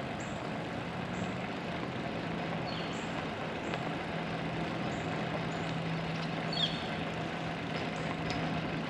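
Steady rolling noise of a Brompton folding bike riding along a trail, with a constant low hum and short high chirps now and then.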